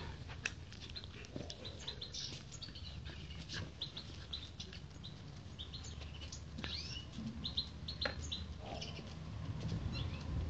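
Small birds chirping in many short, high chirps over a low steady hum.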